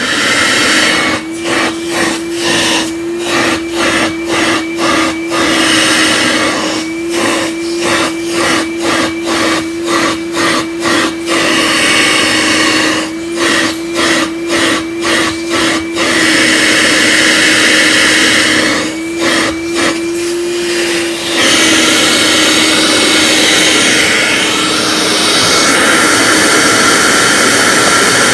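Vorwerk VK121 upright vacuum switched on and running for a suction check. Its sound is chopped by runs of regular dips, about two a second, for most of the time. It then runs steadily with a slightly changed tone for the last several seconds.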